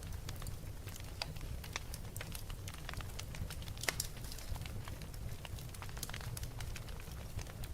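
Fire crackling: irregular sharp pops and snaps over a steady low rumble, with one louder pop about four seconds in.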